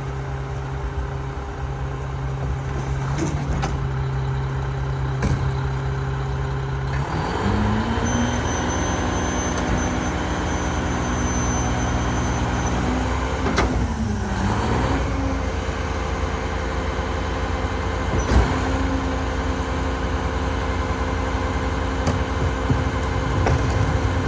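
Mack Granite garbage truck's diesel engine running at a steady low speed, then revving up about seven seconds in. Its pitch dips and climbs back around the middle, then holds steady.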